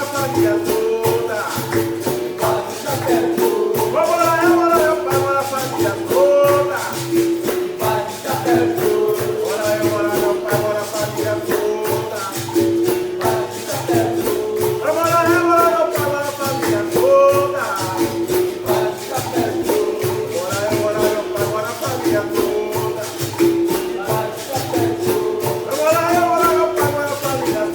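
Capoeira music: berimbaus and caxixi rattles with a pandeiro keeping a steady rhythm, playing the benguela toque, under a sung capoeira song.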